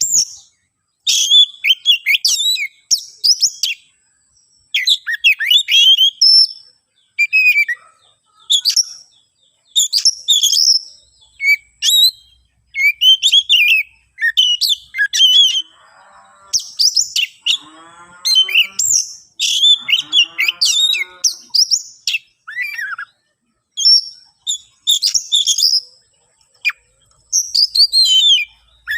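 Oriental magpie-robin (kacer) singing an agitated, fighting song in short loud phrases of whistles and chatter, broken by brief pauses. Near the middle a lower, harsh rasping call runs for a few seconds.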